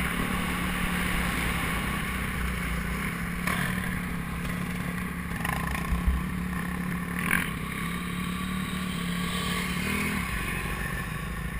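Motocross bike engine running at a steady pitch, dropping away about ten seconds in, with a few brief clatters along the way.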